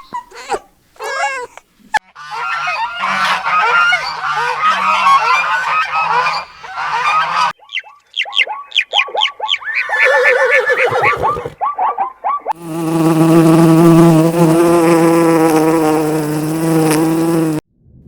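A run of different animal calls, cut one after another: a dense overlapping chatter of many calls, then a quick series of short rising calls, then one long steady call held for about five seconds.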